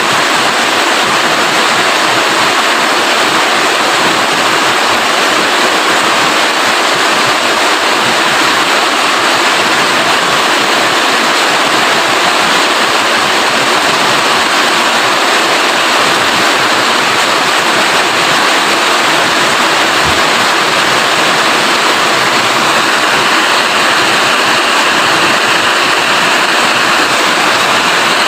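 Steady rain falling, a loud even hiss with no breaks.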